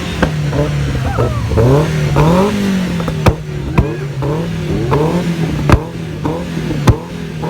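Sports car engine idling with a few short revs lifting its pitch. Four sharp, loud cracks stand out over the engine, about three, four, six and seven seconds in.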